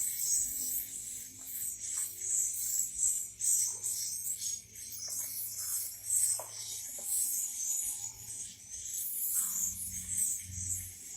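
Swiftlet chicks chirping: a continuous, high-pitched raspy chatter that pulses irregularly.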